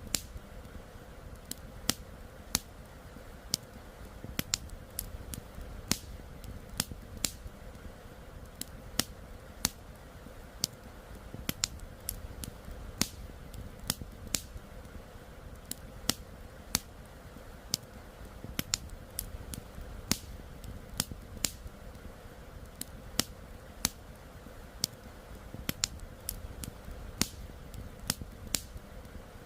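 Wood campfire crackling: sharp, irregular pops about one or two a second over a faint, steady low rush.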